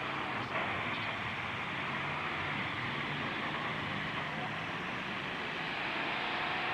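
Engines of demolition derby trucks running as a steady, noisy din, with one short knock about half a second in.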